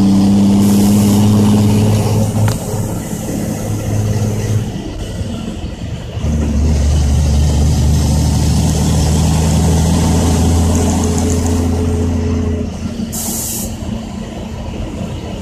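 Loaded dump truck's Cat C10 inline-six diesel heard from the cab, running steadily. It drops off briefly about five seconds in, then comes back with a deeper, louder drone until near the end. A short hiss of air comes near the end.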